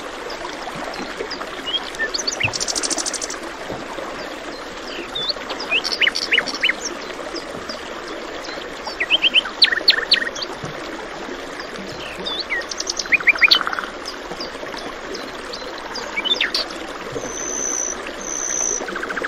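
Songbirds chirping and trilling in short bursts over the steady rush of running water.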